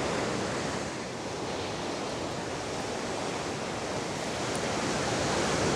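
Ocean surf breaking on the beach below: a steady rush of waves that eases about a second in and swells again near the end.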